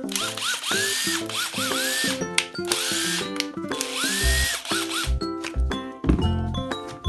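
A cordless driver's motor spun up in a string of trigger pulls in two groups: short blips and a few longer runs, each a whine rising in pitch and then holding. Background music plays throughout.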